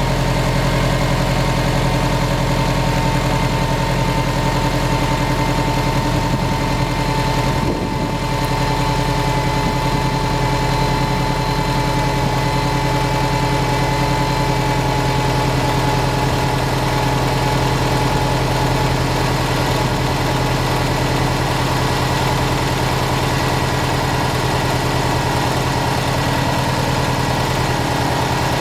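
2009 Subaru WRX STI's turbocharged 2.5-litre flat-four running steadily at idle, with a light tick or knock that rises and falls with engine speed; the owner is not sure what causes it.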